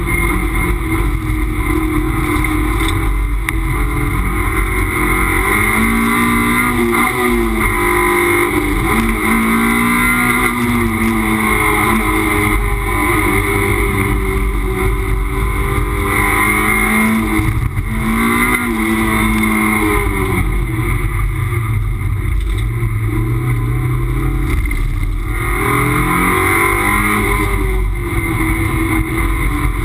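Toyota MR2 race car's mid-mounted engine heard from inside the cockpit, working hard on track. The engine pitch repeatedly climbs under acceleration and drops back at gear changes and braking.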